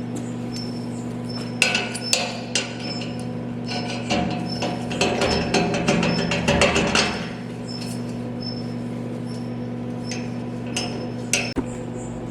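A steady machine hum under a run of sharp hammer-like knocks and taps, bunched together in the middle and with one more knock near the end, and short high chirps repeating throughout.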